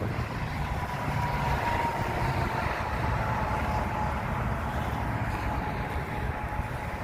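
Semi-truck's diesel engine running under steady road noise, with a faint whine slowly dropping in pitch.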